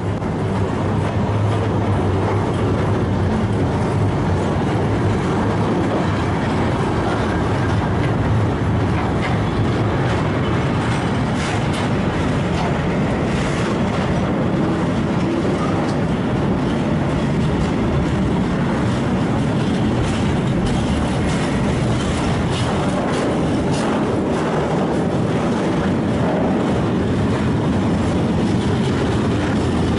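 Freight train of tank wagons and open wagons rolling past close by: a steady rumble of wheels on rail with scattered clicking and clatter.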